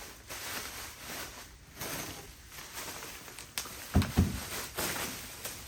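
Handling noises from an aftermarket exhaust muffler and its box: rustling, then a sharp click about three and a half seconds in, followed shortly by two dull knocks.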